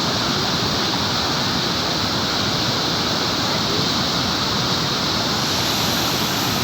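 Dhuandhar Falls on the Narmada River: the steady, loud rush of a large waterfall.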